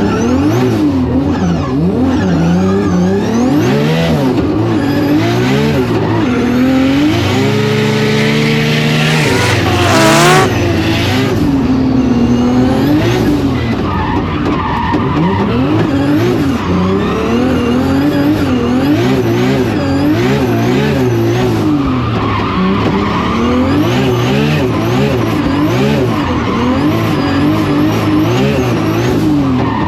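Nissan Skyline R32 drift car's billet RB28 straight-six revving up and down hard through a lap, with one long climb to high revs about ten seconds in, and tyres squealing as the car drifts.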